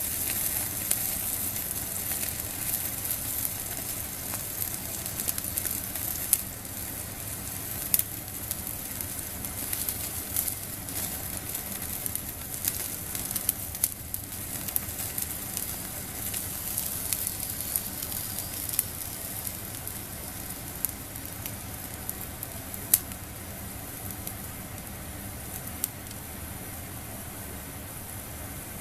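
Food sizzling on a wire grill net over a small fire, with scattered sharp crackles and pops.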